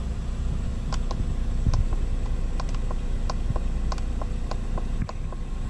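2012 Jeep Patriot four-cylinder engine idling, heard from inside the cabin as a steady low hum, with light clicks at irregular intervals throughout.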